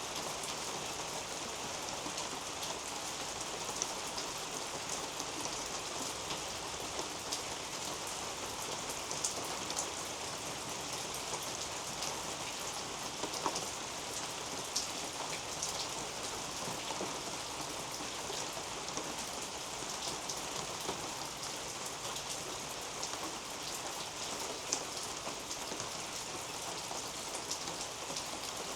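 Steady rain falling on garden foliage, with many small drops ticking close by and a few louder drop hits.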